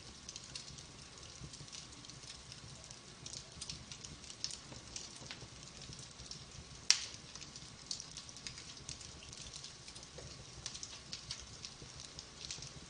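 Logs burning in a wood fireplace, crackling with frequent small sharp snaps over a low rumble. One loud pop comes about seven seconds in.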